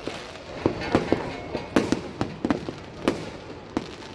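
Fireworks display: aerial shells bursting in a run of sharp bangs at irregular spacing, about two or three a second, each with a short echo after it.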